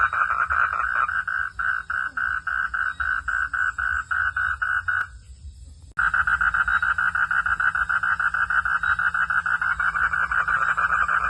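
A chorus of frogs calling in rapid pulsing notes. It thins to a single caller pulsing about five times a second, breaks off for about a second midway, then starts again abruptly at full strength.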